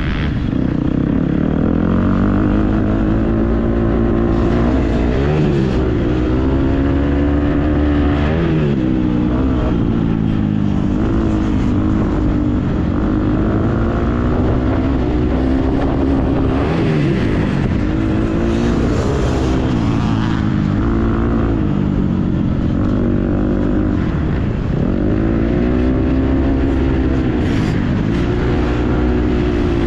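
Motocross dirt bike engine being ridden hard, its revs rising and falling over and over as the rider opens and closes the throttle through the track's sections.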